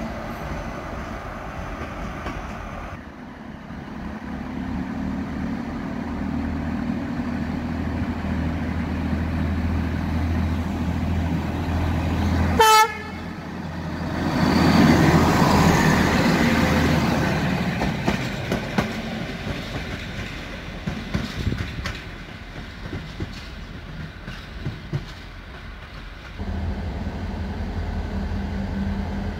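Train passing: a steady low engine hum, then a short, loud locomotive horn blast about halfway through, followed by a swelling rush of train noise that slowly fades.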